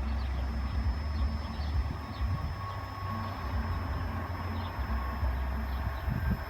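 Low, steady rumble of a train running through a level crossing.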